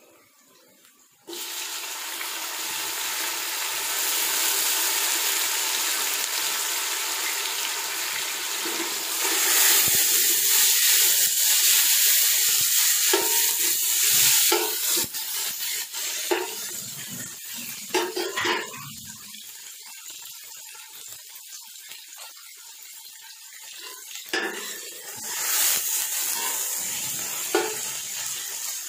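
Sliced onions and tomato pieces sizzling as they fry in hot oil in a stainless steel pot. The sizzle starts suddenly about a second in, is loudest in the middle, and eases off in the later part. A metal slotted spoon scrapes and knocks against the pot as it stirs, with several sharp clinks.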